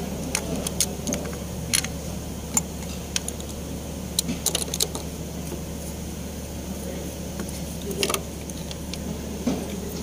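Scattered sharp metallic clicks and clinks of hand tools and engine parts being handled, over a steady low hum.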